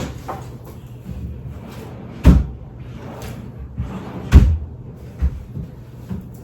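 Two loud bangs about two seconds apart, with a few lighter knocks around them: furniture being opened and shut, like a drawer or cupboard door.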